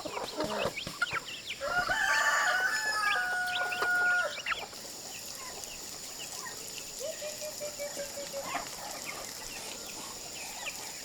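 Chickens clucking, with a rooster crowing loudly about two seconds in, one long call that cuts off after about two seconds; a fainter crow follows a few seconds later.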